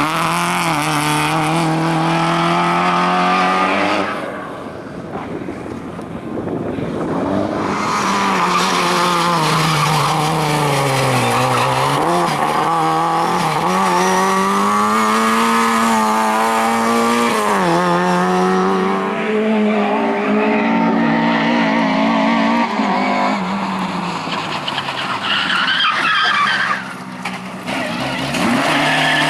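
Rally car engines driven flat out, revving up and down over and over through gear changes, with tyre squeal and skidding. The sound drops away briefly twice, about four seconds in and near the end.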